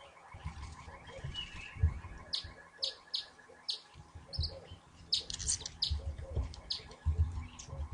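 Small birds chirping: many short, high chirps, some in quick clusters, with irregular low thumps and knocks underneath.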